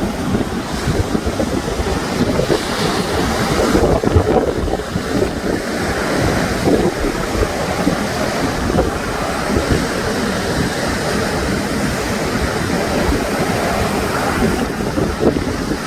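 Sea waves breaking and washing on the shore in a continuous surge, with wind buffeting the microphone.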